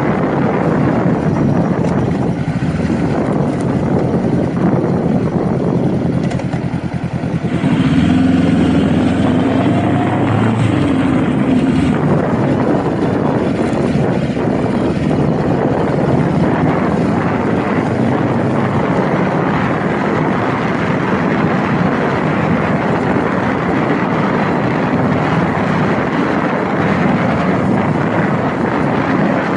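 Honda Rebel motorcycle engine running under way, with wind rushing past the microphone. The engine eases off for a moment a little over six seconds in, then picks up again with a louder pull at about eight seconds.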